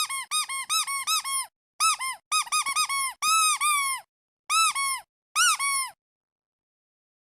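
Rubber duck squeeze toy squeaking over and over in quick bursts, each squeak a short rise-and-fall in pitch. It stops about six seconds in.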